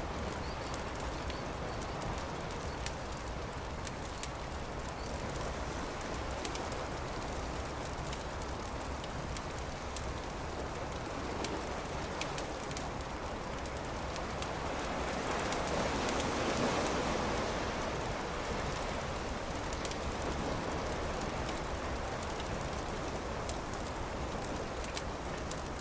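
Campfire crackling, with scattered sharp pops over a steady hiss. A broader rush of noise swells and fades about midway through.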